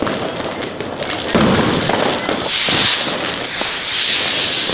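Fireworks and firecrackers going off close by: dense crackling and popping, with a loud hiss rising from about two and a half seconds in and lasting until near the end.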